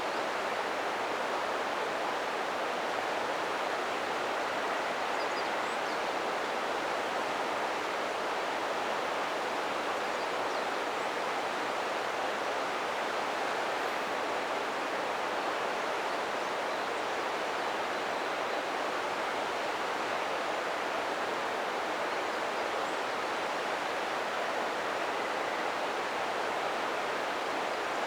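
River water rushing steadily over rocks, an even unbroken hiss of flowing water.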